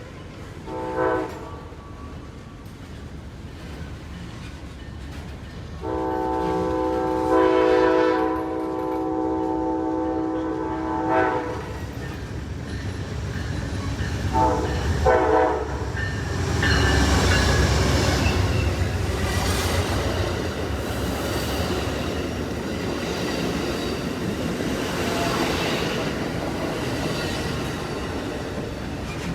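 An Amtrak diesel passenger locomotive's horn: a short blast, then a long blast of about five seconds, then two short blasts. The train then passes with a heavy rumble, loudest just after the horn stops, and fades slowly.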